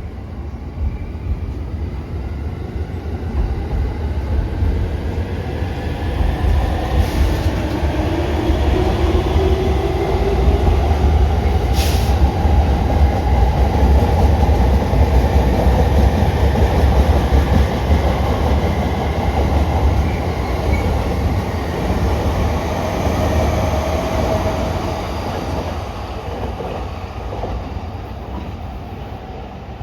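Two JR East electric commuter trains pulling away from the platform side by side, their traction motors giving several rising whines as they accelerate over rumbling wheel and rail noise. The noise swells as they pass, then fades, with a couple of sharp clicks along the way.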